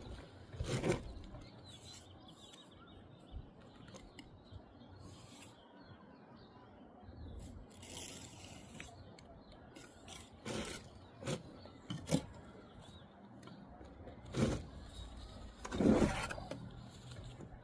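Bricklaying at work: a mason's trowel scraping mortar and tapping brick, heard as a handful of separate sharp knocks and scrapes, the loudest near the end.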